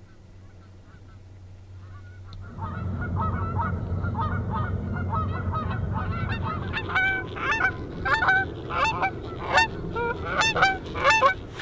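A flock of geese honking, with many overlapping calls that grow louder and more frequent over the last half. A low steady rumble runs underneath from about two and a half seconds in.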